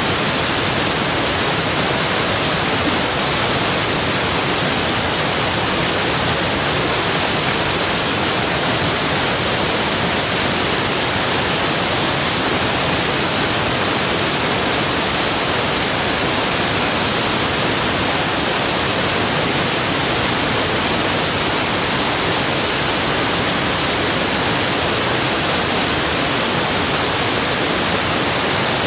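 Rushing water: a steady, dense hiss with no letup, strongest in the high range.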